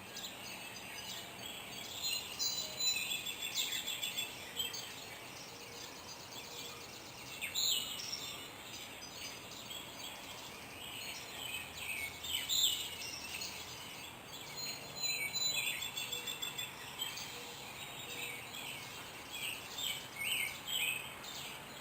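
Several wild birds singing and calling together in a morning chorus: overlapping chirps, short trills and quick down-slurred notes.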